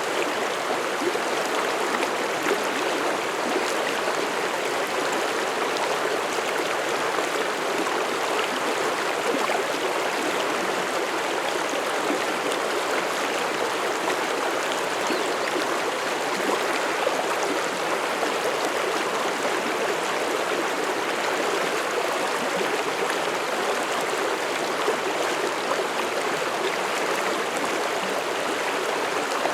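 Mountain stream flowing over rocks, a steady rushing, burbling water sound.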